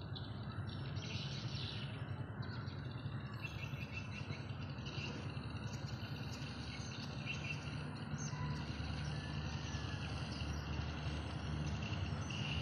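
Birds chirping and calling, with a faint high, pulsing insect trill and a steady low hum underneath.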